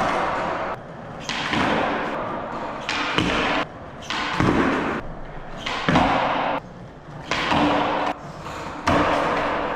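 Skateboard wheels rolling and grinding on rough pavement, broken by sudden thuds of the board landing and slapping down, about every one to two seconds, as the skater attempts backside 180s.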